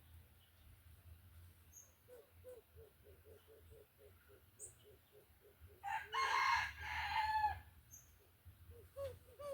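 A rooster crows once, a loud call of under two seconds about six seconds in, after a run of short, soft clucks at about four a second. Faint high chirps of small birds come now and then.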